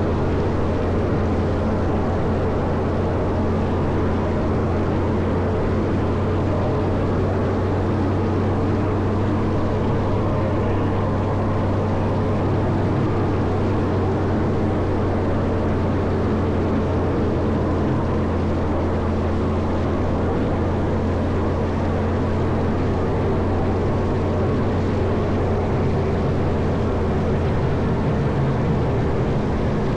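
Caterpillar 140M motor grader's diesel engine running steadily with an even low drone.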